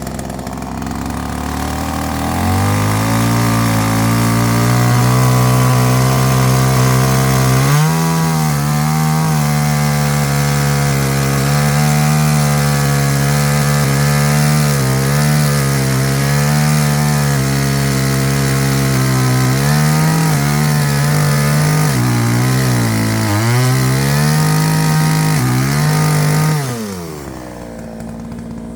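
Chainsaw revving up to full throttle and running high for over twenty seconds, its pitch dipping briefly several times as it cuts into firewood. Near the end it drops back to idle.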